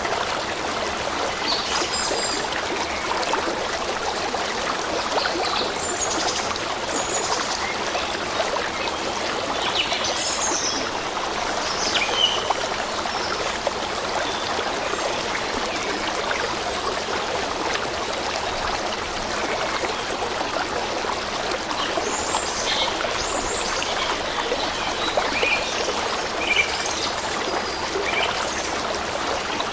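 A stream flowing steadily, with birds chirping in short, high calls that come and go.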